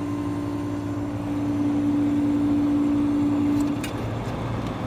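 Vintage window air conditioner running, its big AJ-series reciprocating compressor giving a steady electric hum. The hum swells louder for a couple of seconds mid-way, then drops back about four seconds in.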